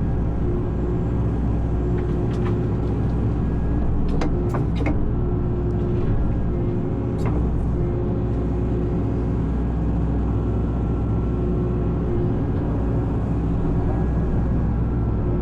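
Excavator diesel engine running steadily under work, with a few short sharp cracks about a third and halfway through.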